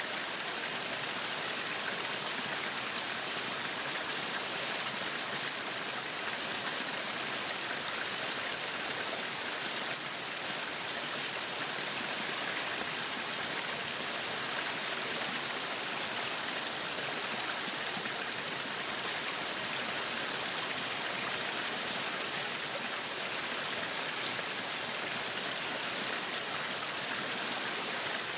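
Meat sizzling on a yakiniku grill: a steady, even sizzle that keeps on without a break.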